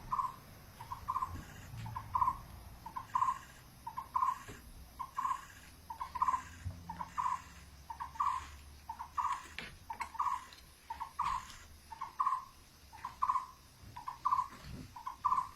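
A bird calling over and over with a short two-note call, repeated steadily about once a second.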